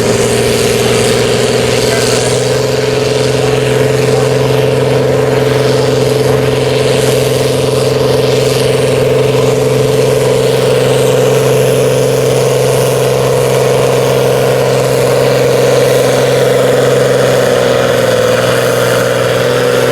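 Farm stock diesel tractor engine running hard under full load as it pulls the weight sled, holding a steady pitch and sagging slightly near the end.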